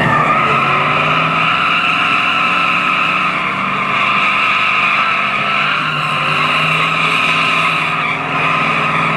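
Truck tyres squealing steadily as they spin in a burnout, with the engine running underneath.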